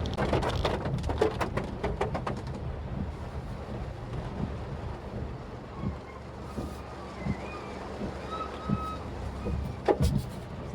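Maruti Suzuki Swift Dzire car running with a steady low rumble, a quick run of clicks and knocks in the first couple of seconds, and faint wavering chirp-like tones from about halfway through.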